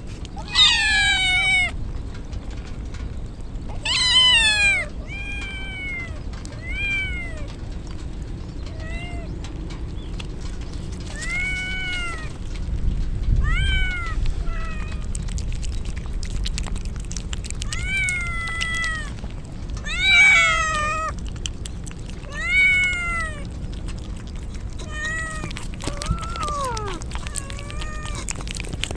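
Kittens meowing repeatedly, more than a dozen separate high-pitched cries each bending in pitch, spaced a second or few apart.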